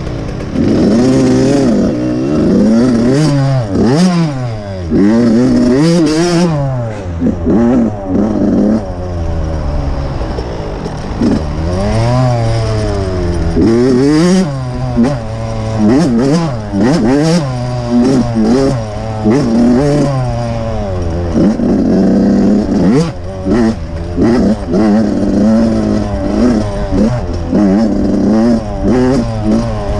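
Dirt bike engine being ridden hard, revving up and back down over and over, its pitch climbing and falling every second or two. Scattered knocks and clatter run throughout.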